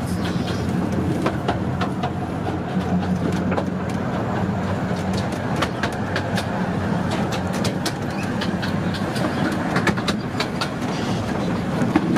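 A 15-inch-gauge miniature railway train running along the track, heard from on board: a steady rumble with the wheels clicking and clacking over the rail joints.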